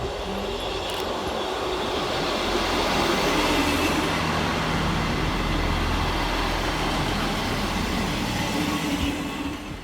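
Class 158 diesel multiple unit arriving at a station: a low engine hum with wheel and rail noise, growing louder to a peak a few seconds in, then holding steady and easing off slightly as the train slows.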